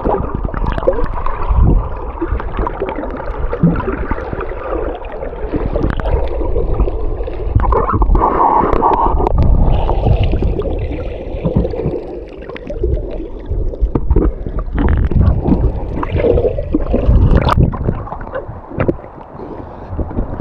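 Muffled water sloshing and gurgling around a camera carried by a snorkelling swimmer, with scattered splashes.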